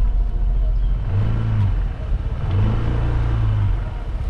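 A vehicle engine pulling along a road over a low rumble. Its pitch climbs and then holds steady about a second in, and again about halfway through, as it accelerates.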